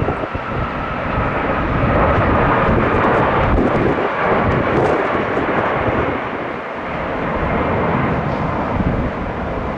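Jet airliner engines at takeoff power, a steady roar with a faint high whine that slides slightly down. The roar swells a couple of seconds in and then eases off as the plane climbs away.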